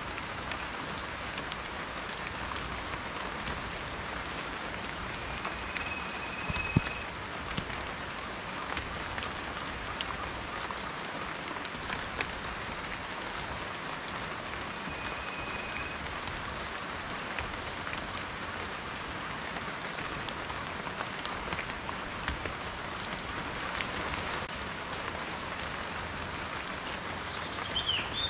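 Steady rain falling, with many individual raindrops ticking close by and one heavier drop landing louder about a quarter of the way in. A short, high, steady tone sounds twice, and a brief chirp comes near the end.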